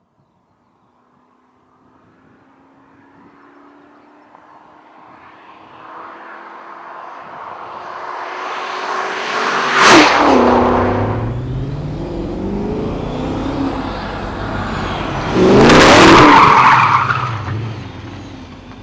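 A tuned BMW 744i's 4.4-litre V8 approaches at speed and passes close by about ten seconds in, its engine note dropping in pitch as it goes. A second loud burst of engine and tyre noise follows around sixteen seconds, then the sound fades.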